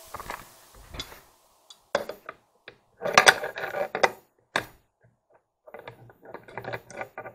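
Clinks and knocks of metal parts and tools being handled during work on a kitchen sink faucet, in irregular clusters: a busy patch a little after the middle, a brief pause, then lighter clicking near the end.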